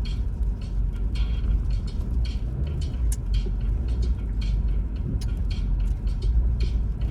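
Car driving on a snow-covered road, heard from inside the cabin: a steady low rumble from engine and tyres, with many short, irregular hissing crackles.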